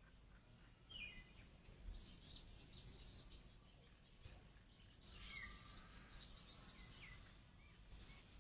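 Sogon bird singing in the wild, faint: two bursts of rapid, high twittering chirps, the first about a second in and the second around five seconds in, each opening with a short falling note.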